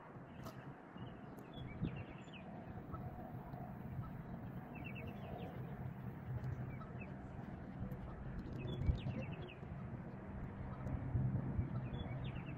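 Outdoor pond-side ambience: small birds chirping in short groups now and then over a low steady hum.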